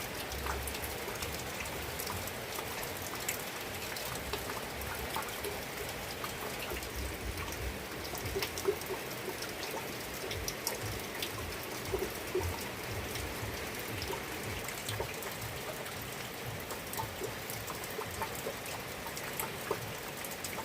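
Steady rain falling, with many individual drops ticking throughout.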